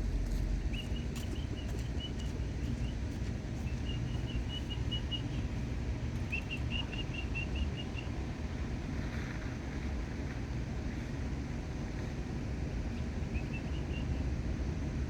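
Bird chirping in quick repeated runs of high notes, several times over a steady low outdoor rumble.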